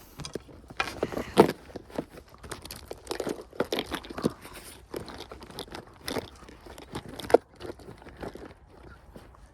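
Irregular crunching and crackling: a run of short, uneven knocks and rustles, with two louder snaps about a second and a half in and near seven and a half seconds in.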